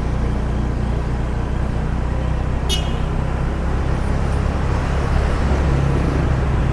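Steady engine and road noise of a car moving slowly in town traffic, heard from inside. A brief high-pitched chirp about three seconds in.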